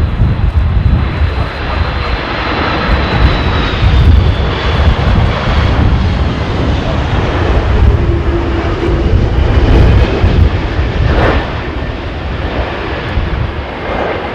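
Jet airliner engines running loud, with a high whine that slowly drops in pitch, over heavy wind buffeting on the microphone.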